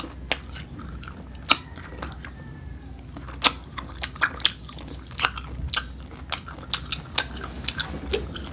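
Close-up biting and chewing of crisp unripe green mango: a run of sharp crunches, irregular and at times several a second, with the loudest bites about one and a half, three and a half and five seconds in.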